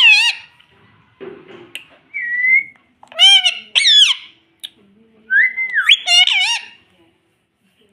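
Pet parrot giving a series of high-pitched whistled calls, rising and falling in pitch, in about four short bursts with gaps between them.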